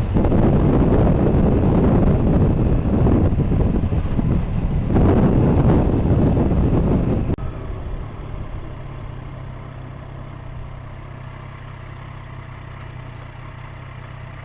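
Motorcycle riding noise: loud wind and road rush for about seven seconds. It cuts off abruptly to a quieter, steady low engine hum.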